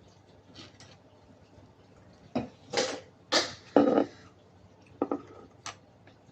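Close-up eating and drinking mouth sounds: four or five loud, noisy slurps or gulps in a cluster in the middle, then two small clicks.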